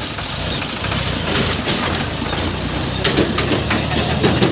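New Holland 3037 tractor's diesel engine running under load, with irregular mechanical rattling and clicking over a low hum, a little louder near the end.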